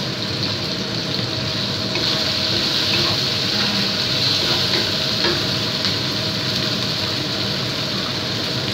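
Chicken and onion pieces sizzling steadily in a hot wok, with a few light knocks and scrapes as a wooden spatula stirs them.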